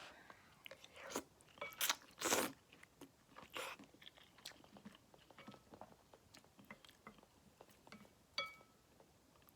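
A person eating tan tan men ramen: several short, loud slurps in the first few seconds, then quieter chewing and small mouth clicks, with a short ringing clink of a utensil on the bowl near the end.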